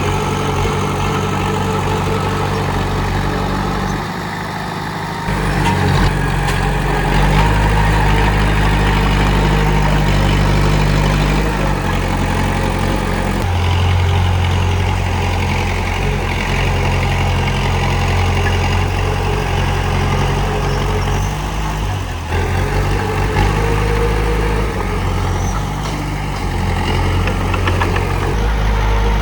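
Komatsu D31P bulldozer's diesel engine running steadily, its note shifting a few times.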